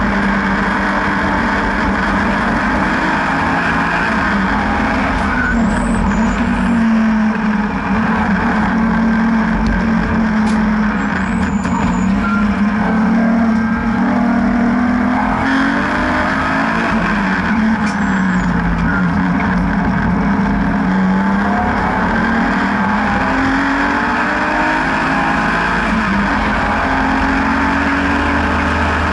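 BMW N52B30 3.0-litre naturally aspirated straight-six driving hard on a race track, its pitch climbing and dropping repeatedly through gear changes and corners, over steady wind and tyre noise.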